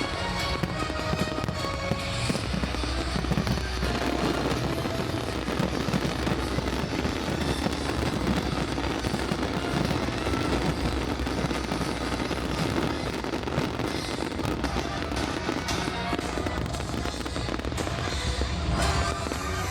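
A dense fireworks barrage: near-continuous bangs and crackling with a deep rumble, over the display's music soundtrack, which stands out more clearly at the start and near the end.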